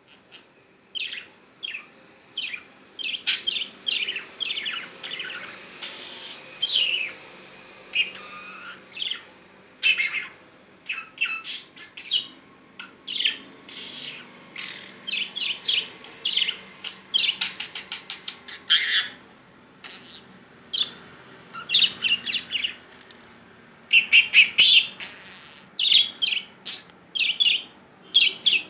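Budgerigar chattering and warbling: quick runs of short chirps, whistles and clicks with brief pauses between them.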